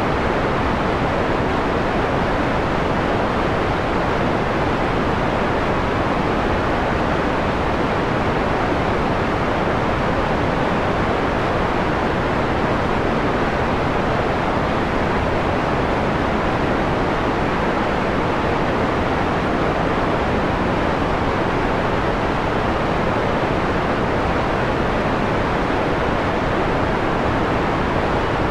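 Steady electronic white noise, filtered to a mellow hiss with the treble rolled off, running evenly without change.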